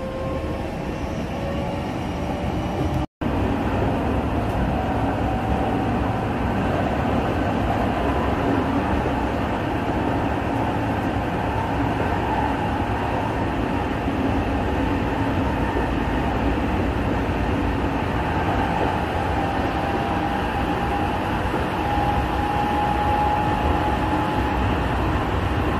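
Electric commuter train of the Tōyō Rapid Railway running at speed, heard from inside the car: a steady rumble of wheels on rail with a faint whine rising in pitch at the start. The sound drops out completely for a moment about three seconds in.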